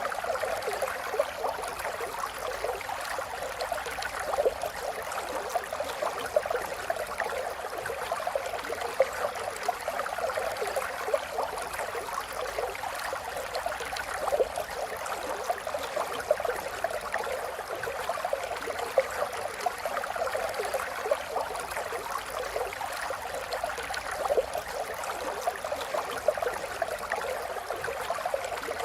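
A small stream of running water babbling steadily, with many small splashes and gurgles.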